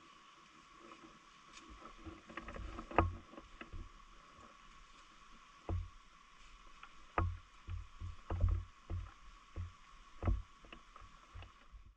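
A steady hiss with irregular soft knocks and clicks scattered through it, cutting off suddenly at the end.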